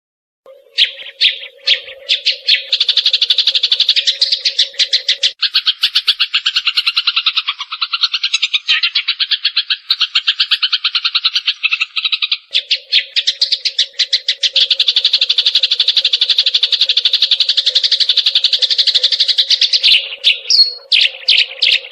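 Eurasian tree sparrow song in rapid-fire bursts: a few separate chirps, then a fast, dense run of chirps many per second that carries on with hardly a break. About five seconds in the chirps drop in pitch for a while, then rise again.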